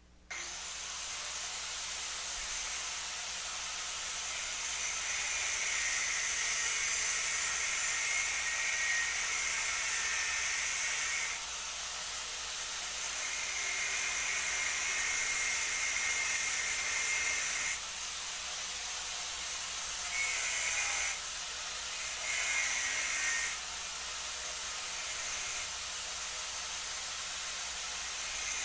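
A power tool running in long steady stretches with a high hiss. It starts abruptly, shifts in level around the middle, and has two brief louder spells near the end as the load on it changes.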